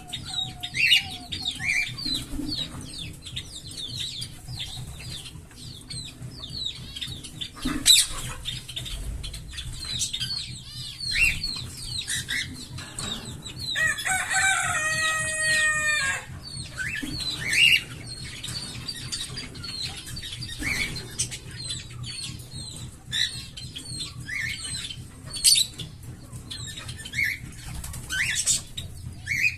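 A group of small pet parrots chattering with a steady stream of short chirps and warbles, with a louder, longer squawking call about halfway through and a few sharp clicks.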